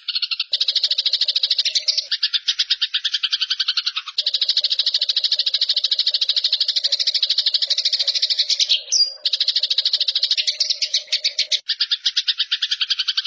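Eurasian tree sparrows (burung gereja) giving their fast, rattling fight chatter. It is a dense run of rapid buzzy notes with brief pauses about half a second, four seconds and nine seconds in.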